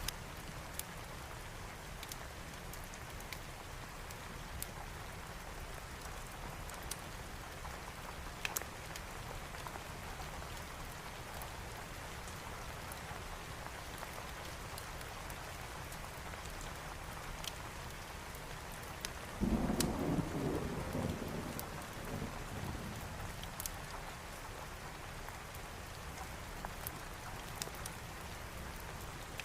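Steady rain with scattered sharp ticks, and a roll of thunder about two-thirds of the way through that rumbles for a few seconds and fades.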